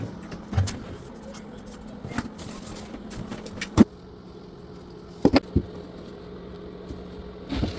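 Scattered sharp knocks and clicks of hand work on plumbing parts, the loudest about four seconds in, with a quick cluster of clicks a little after five seconds, over a steady low hum.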